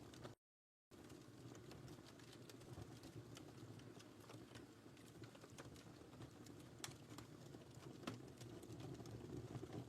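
Wood fire in a fireplace crackling softly: a low steady hiss and rustle of burning with irregular sharp pops, two louder ones in the second half. The sound cuts out completely for about half a second near the start.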